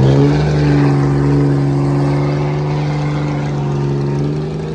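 Vehicle engine revving up and then held at steady high revs for several seconds, easing near the end.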